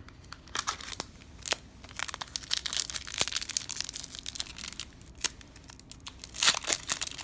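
Crinkling and tearing of a baseball card pack wrapper being opened, with cards being handled: an irregular run of crackles and clicks, busiest near the end.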